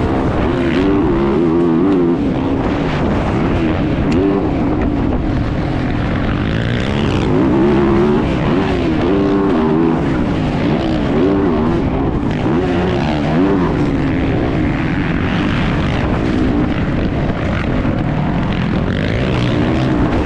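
Motocross bike engine heard from an onboard camera, revving up and falling back over and over, its pitch rising and dropping every second or two as the rider accelerates and shifts.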